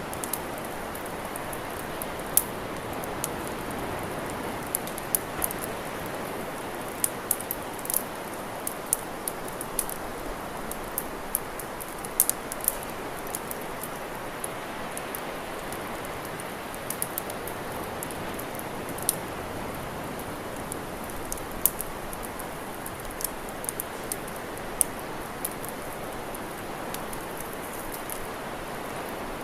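Campfire crackling: sharp pops and snaps come at irregular intervals over a steady rushing hiss.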